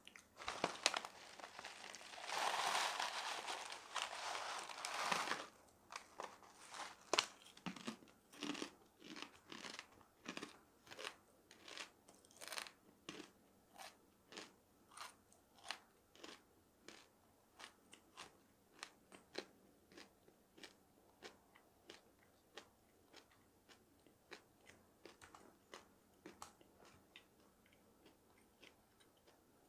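Close-up chewing of crunchy dried jujube slices: a dense stretch of crunching and crackling over the first few seconds, then single crunches about once or twice a second that slowly grow fainter as the mouthful is chewed down.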